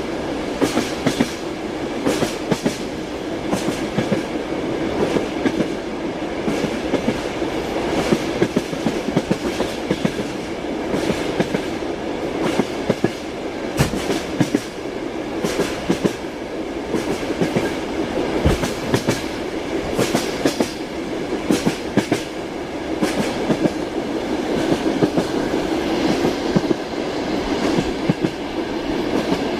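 Train wheels clacking over rail joints, a sharp clack every second or so, over the steady rumble of the moving train.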